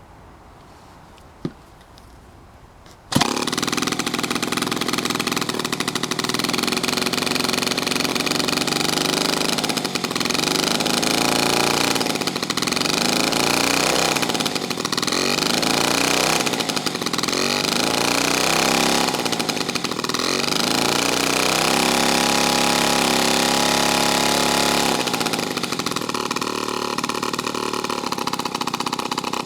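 1947 Power Machinery Universal chainsaw engine starting about three seconds in and running loud, its speed dipping and recovering several times. It holds a steady high speed briefly, then settles to a lower speed near the end.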